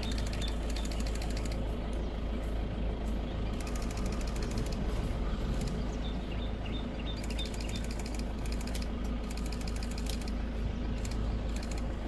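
Safari vehicle's engine idling steadily, with a low rumble. Patches of fast, high-pitched ticking buzz come and go over it several times.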